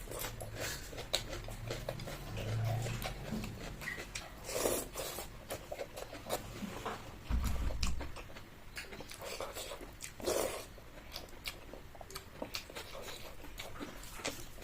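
Close-up eating sounds: chewing and wet mouth smacks with many small clicks, and a dull low bump about seven and a half seconds in.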